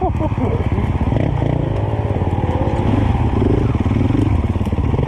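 Dirt bike engine running under load, its revs rising and falling with the throttle.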